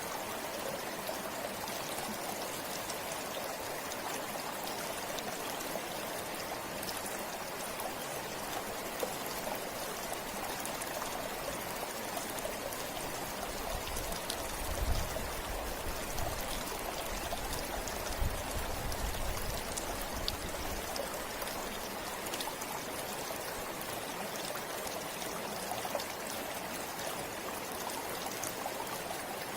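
River water flowing steadily, an even rushing sound, with a few low bumps between about 14 and 21 seconds in.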